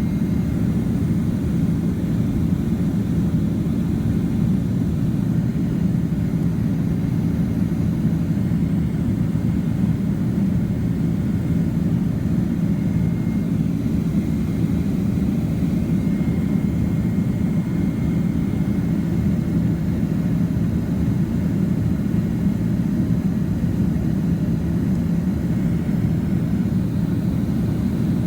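Steady, unchanging jet engine and airflow rumble heard inside the cabin of a Boeing 767-300ER airliner, with a faint thin whine above it.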